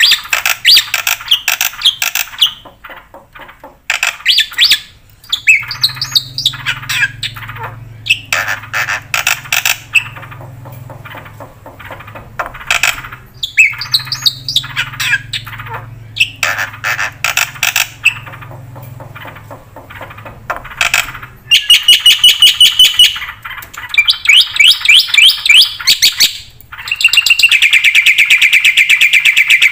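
Black-winged starling singing a long, varied song of squawks, slurred whistles and sharp calls, breaking into fast rattling trills near the end, with a faint low hum under the middle of it.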